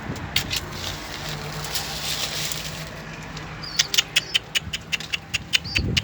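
Pigeons in their loft: from about halfway through, a fast run of sharp clicks and taps, about five a second, with a few short high chirps among them.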